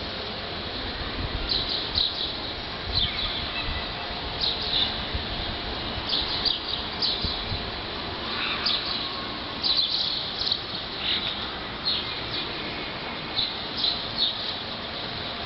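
Small birds chirping in short, repeated high calls scattered throughout, over a steady outdoor background with a low rumble.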